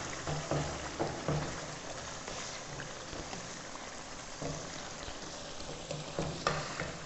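Thick chicken masala sizzling and bubbling in its separated oil in an aluminium pot while a wooden spoon stirs it, with a few short scrapes of the spoon against the pot.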